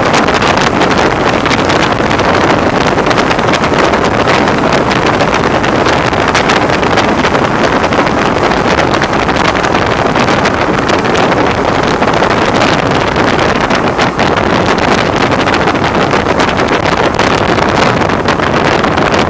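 Heavy wind buffeting on the microphone from a BMW R1100R motorcycle on the move, a loud, steady rush that swamps the engine. The rider puts the wind noise down to the windscreen.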